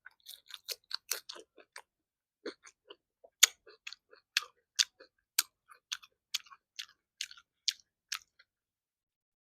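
Close-miked chewing of a meal of matar paneer, puri and salad: sharp little crunches and wet mouth clicks, quick at first, then about two a second, stopping shortly before the end.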